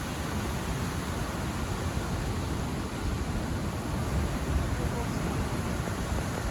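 Steady rush of ocean surf, heaviest in the low end, with a faint voice about four and a half seconds in.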